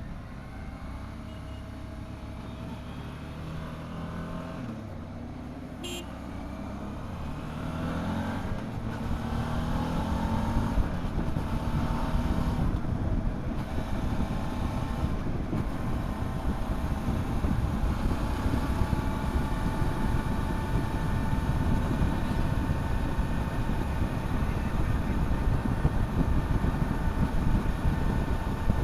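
Motorcycle engine accelerating, its pitch rising over several seconds, then running steadily at road speed. Wind rush on the microphone builds as the speed rises and becomes the loudest part of the sound.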